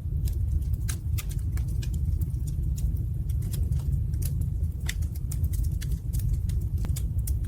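Fire in a fireplace crackling, with frequent irregular sharp snaps and pops over a steady low rumble.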